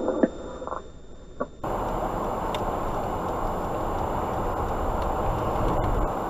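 A few faint clicks from a scanner radio. Then, about one and a half seconds in, a steady rushing rumble of strong wind on the microphone starts abruptly.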